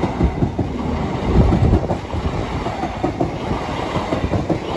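Southeastern Class 395 high-speed electric train, two six-car units coupled, passing slowly close by over a level crossing: a steady rumble with a rapid run of wheel knocks over the rail joints and crossing.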